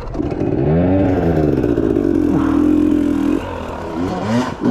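KTM dirt bike engine revving up and down several times, holding a steady speed for about a second, then blipping again near the end.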